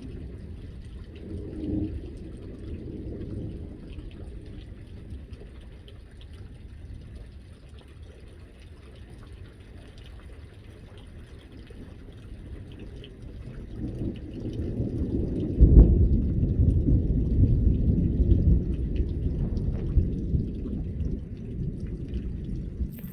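Rain falling through a thunderstorm, with low thunder rumbling. A long, loud roll of thunder builds about two-thirds of the way through and keeps rumbling to the end.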